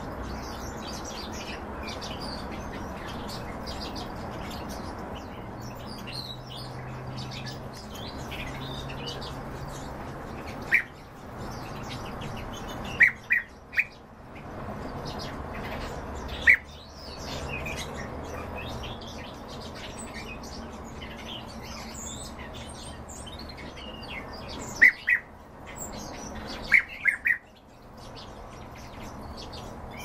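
Caged small songbirds twittering and chirping over a steady background hum, with about ten loud sharp calls, several in quick runs of two or three, about a third of the way in, around the middle and near the end.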